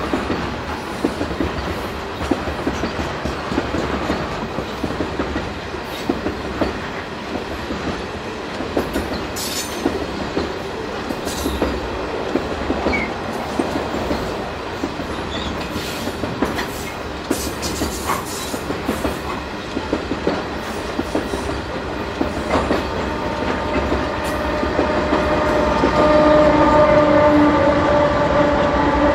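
Loaded potash covered hopper cars rolling past, their wheels clicking steadily over the rail joints. From about 23 s in, the rear diesel locomotive's engine comes up as a steady drone that grows louder as it passes near the end.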